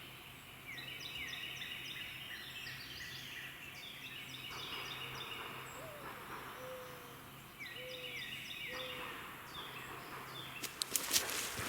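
Distant wild turkey gobbling twice, about seven seconds apart, each gobble a quick run of falling notes. A few sharp clicks near the end.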